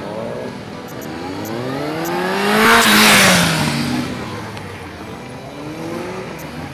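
Suzuki DR-Z400SM supermoto's single-cylinder four-stroke engine revving up and dropping back again and again as the bike accelerates and slows through tight turns. The loudest rise, with a rush of hiss, comes about three seconds in, and another rev builds near the end.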